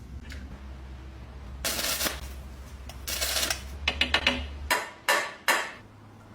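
Small metal lock parts and tools clinking and tapping, with a cluster of sharper knocks about five seconds in, over a low hum that stops partway through.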